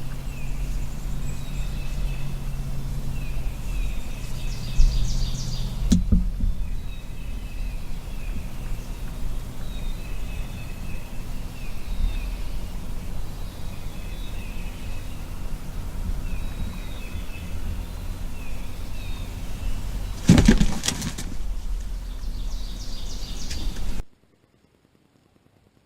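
Songbirds calling over and over, short repeated chirps with a few quick high trills, over a steady low rumble of distant road traffic. A brief loud burst of noise comes about twenty seconds in, and the sound cuts out near the end.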